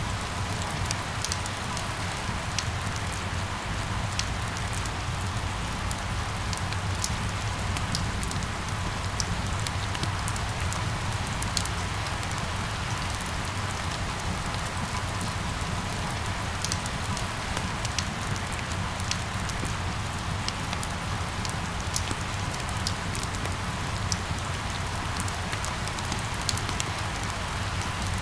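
Steady rain falling, with frequent sharp drop ticks over an even hiss and a low steady rumble underneath.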